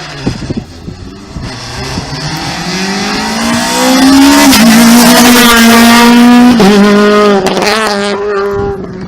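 Rally car driving flat out past the spot. Its engine note climbs as it approaches, is loudest about four to six seconds in, then drops sharply in pitch as it goes by and pulls away.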